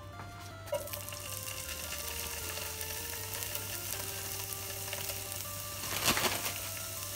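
Pieces of pre-cooked daikon radish and carrot sizzling in hot olive oil in a nonstick frying pan, the sizzle starting a little under a second in as they go into the pan. A louder burst of sizzling and rattling about six seconds in as the pieces are moved around.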